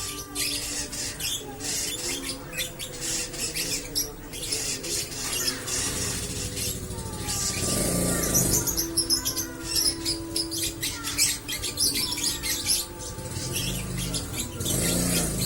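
Lovebird chattering in a long, unbroken run of rapid, high-pitched chirps and squeaks: the drawn-out chatter keepers call 'ngekek panjang'. Steady background music plays underneath.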